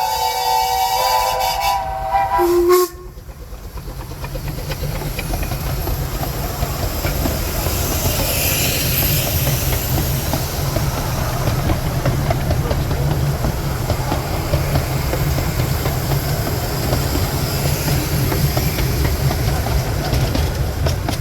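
A narrow-gauge steam locomotive's whistle sounds a chord of several notes and stops abruptly about three seconds in. A steam train then runs past with a steady low rumble and rail clatter that grows louder, with a spell of steam hiss around eight to ten seconds in.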